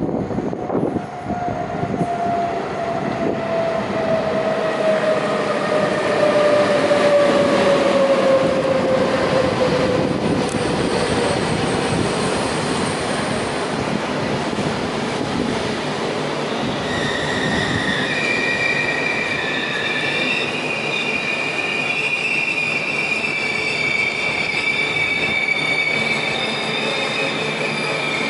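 SBB double-deck InterCity train, led by an Re 460 electric locomotive, running in and slowing. The locomotive's whine falls steadily in pitch over the first ten seconds, over the rumble of the coaches rolling past. After about seventeen seconds, high steady squeals set in as the train brakes.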